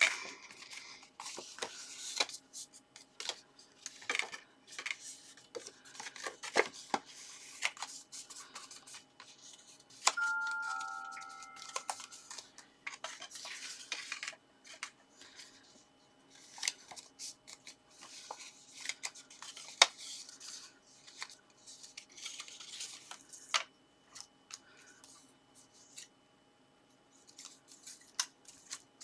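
Card stock being handled and folded along its score lines: irregular rustles, creases, scrapes and sharp taps and clicks on the work surface. About ten seconds in, a short two-note chime sounds, stepping down in pitch.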